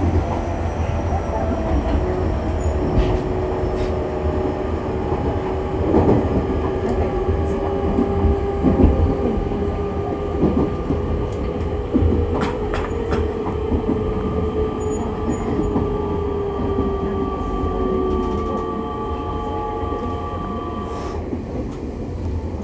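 Running sound of an E501-series electric multiple unit, heard inside a motor car: low rail rumble with occasional wheel clacks over rail joints. Over it sit traction motor and inverter tones that slowly drift in pitch.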